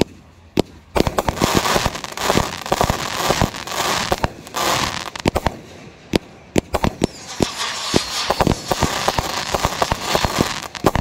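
Fireworks going off in quick succession: sharp bangs of shells launching and bursting, over long stretches of dense crackling. A few single bangs come first, and the volley thickens about a second in.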